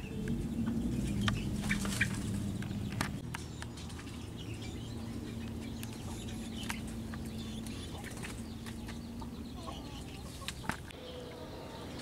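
Birds chirping and clucking over a low steady hum, with scattered light clicks.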